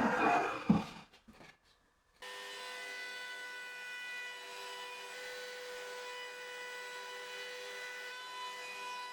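Handling noise with a sharp wooden knock, then after a short pause a steady machine whine made of several fixed tones cuts in abruptly and runs on evenly: a power-tool motor running, such as the CNC router's spindle or a dust extractor.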